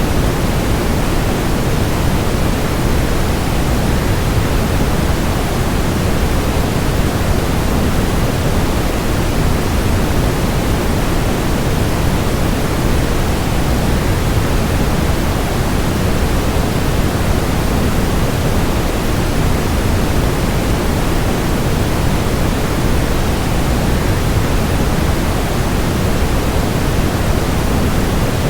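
Steady waterfall rush blended with white noise: an even, unbroken hiss, fuller in the low end, that never changes.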